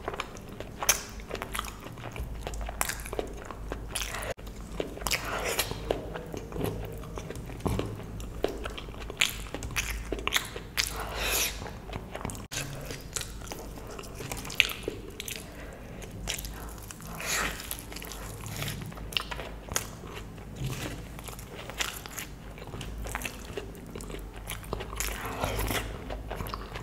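Close-miked chewing of a mouthful of luchi (fried puffed bread) with spicy potato curry, with many irregular clicks from the mouth.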